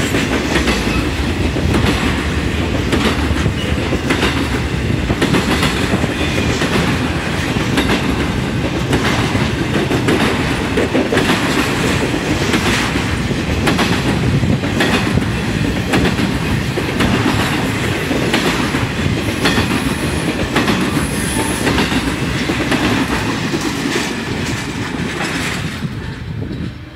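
Intermodal freight train cars, highway trailers on flatcars and stacked containers, rolling past close by: a steady heavy rumble of wheels on rail with rhythmic clickety-clack over the rail joints. The sound fades near the end as the last car passes.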